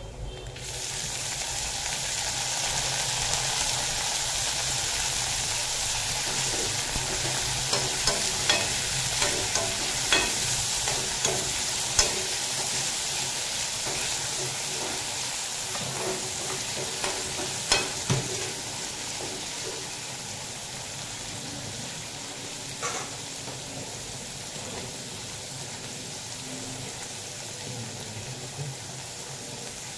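Chopped tomatoes sizzling in hot oil in a metal kadai. The sizzle starts suddenly as they go in and eases over the second half. A steel spatula scrapes and clinks against the pan as they are stirred, with the sharpest knock about eighteen seconds in.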